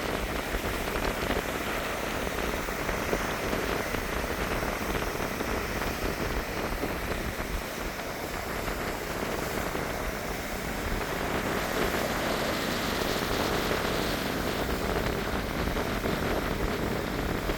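Gentle Mediterranean sea waves washing onto a beach, a continuous hiss of surf that grows a little louder in the second half.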